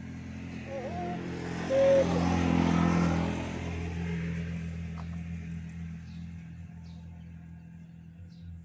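A motor vehicle passing by: its engine noise swells to a peak a couple of seconds in, then slowly fades away. A short high note sounds at the loudest point, about two seconds in.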